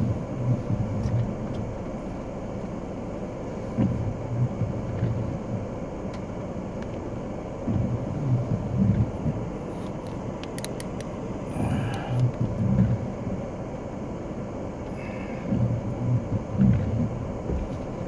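Taxi cab idling, heard from inside the cab: a steady low rumble with swells every few seconds and a few short clicks and knocks about halfway through.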